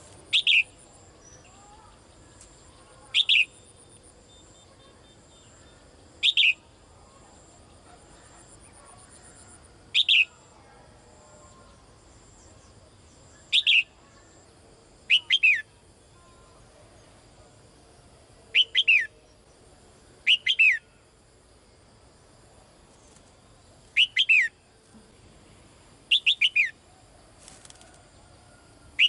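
A caged female songbird calling for a male with short, sharp, downward-sweeping call notes every few seconds. The notes come singly at first and in quick pairs from about halfway through.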